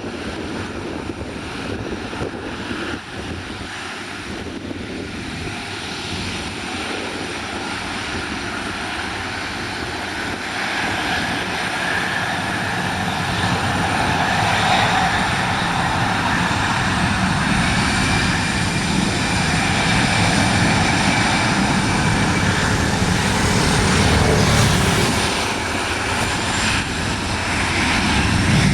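Airliner engines running, growing steadily louder as the aircraft draws closer, with a thin steady whine partway through.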